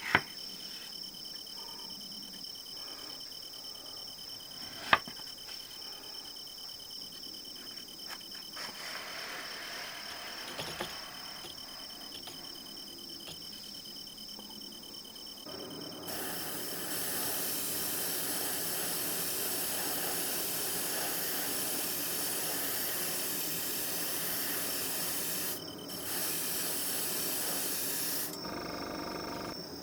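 A couple of sharp clicks, then about halfway through an airbrush starts spraying with a steady hiss. The hiss breaks off briefly once and stops shortly before the end. A steady insect chirring runs underneath throughout.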